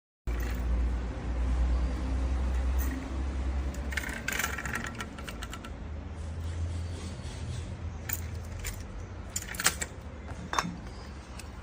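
Metal parts clinking and knocking as they are handled, a cluster of jangling clicks about four seconds in and a few sharper knocks near the end, over a low rumble.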